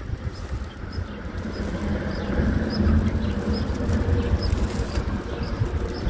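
A small bird giving a short, high chirp over and over, about once a second, faint over a steady low rumble.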